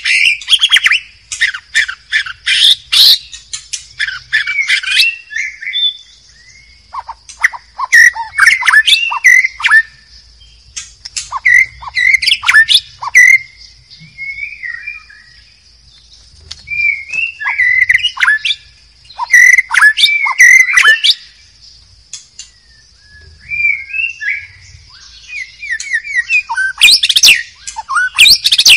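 White-rumped shama singing: phrases of clear whistles mixed with rapid chattering notes, each a second or three long, repeated after short pauses.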